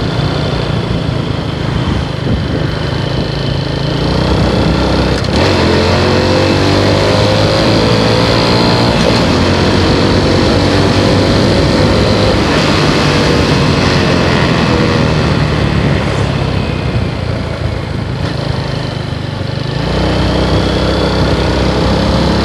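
Motorcycle engine running at road speed under a steady rush of wind noise, its pitch shifting in steps about five seconds in and again near the end as the rider changes speed or gear.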